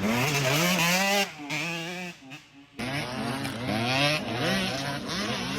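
Dirt bike engines revving up and down on a motocross track. The throttle climbs in pitch, drops away briefly about two seconds in, then picks up again with more than one bike revving at once.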